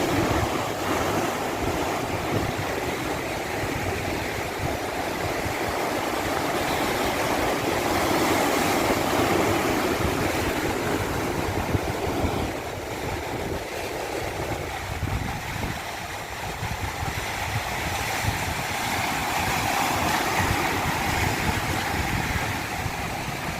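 Rushing water: a steady wash of noise that slowly swells and eases over several seconds.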